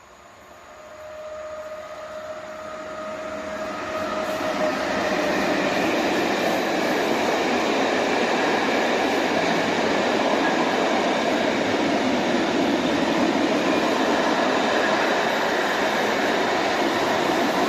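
A train hauled by a 111Ed electric locomotive draws near and passes close by. A faint whine dies away within the first few seconds as the rolling noise of the wheels grows. The noise settles into a loud, steady roar that lasts until the end.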